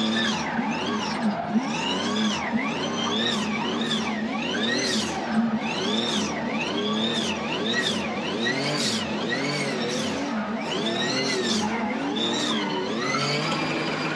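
Car engine revved hard and let off over and over, its pitch rising and falling about every second, the throttle worked on and off as the car is drifted.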